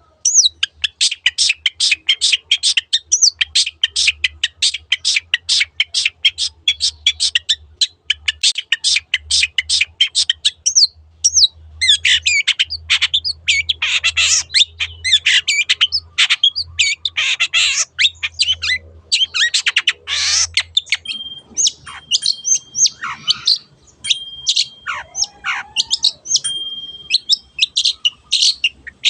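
Long-tailed shrike (cendet) singing: a fast run of sharp high chirps, about five a second, for roughly ten seconds, then a varied mix of harsh notes, trills and short held whistles.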